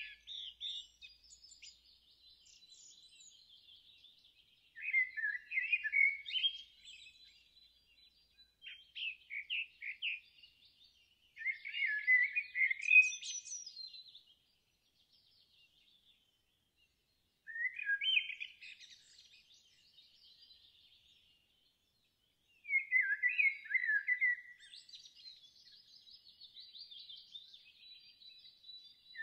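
Songbird singing short, warbling phrases of song every few seconds, with pauses between them, over a faint high steady trill.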